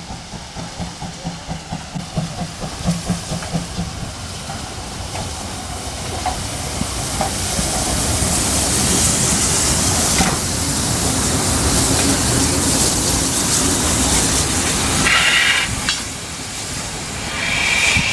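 Steam locomotive working: rhythmic exhaust chuffs at first, then a loud steady hiss of steam that builds as it draws near, with a high tone sounding twice near the end.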